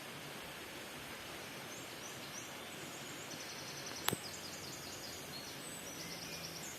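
Outdoor forest ambience: a steady hiss under high, rapid chirping that starts about two seconds in, with one sharp click about four seconds in.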